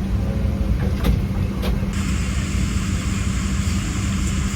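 Steady low hum of an airliner cabin (Boeing 777-300ER), with a couple of light clicks about a second in. About two seconds in, a steady hiss of air starts suddenly and joins the hum.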